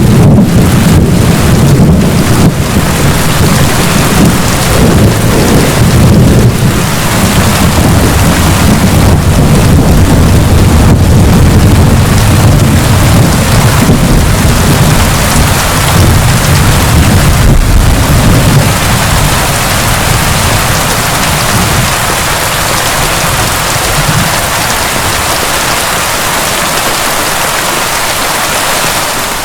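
Heavy rain pouring steadily, with a long low rumble of rolling thunder under it that dies away about two-thirds of the way through.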